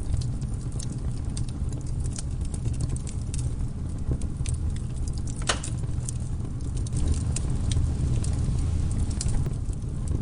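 Campfire burning with a steady low rumble of flames and irregular sharp crackles and pops of burning wood, one louder, longer pop about halfway through.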